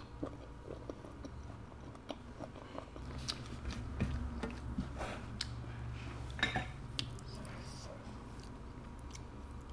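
Faint chewing of very chewy conch meat: scattered soft wet mouth clicks and smacks.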